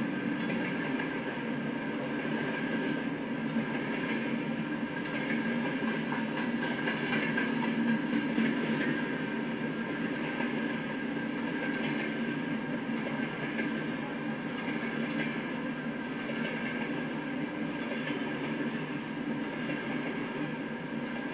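Freight train cars rolling past steadily, the continuous noise of steel wheels on rail.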